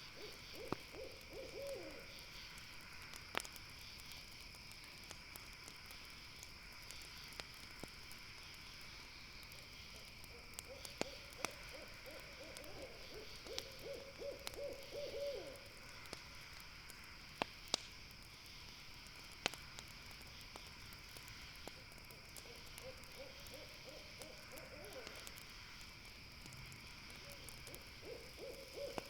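An owl calling in wavering bouts of rapid notes at one pitch, each a few seconds long, four times, over a steady high-pitched night hum. Occasional sharp pops from a campfire.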